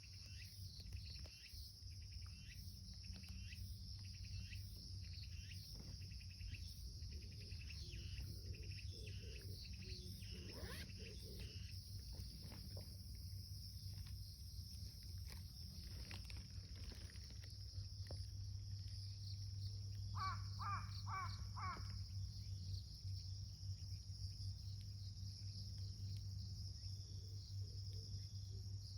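Outdoor nature ambience: a steady high-pitched insect chorus over a low steady hum, with repeated short bird calls over the first dozen seconds and a run of four quick calls about twenty seconds in.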